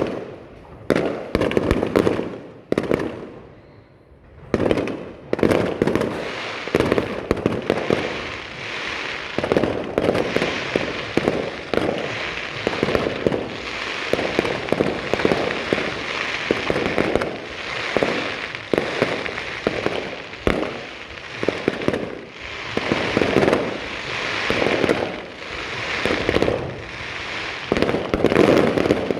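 Aerial fireworks going off in a dense barrage: many sharp bangs, several a second, with a short lull about three to four seconds in, then near-continuous bursting over a steady fizzing haze.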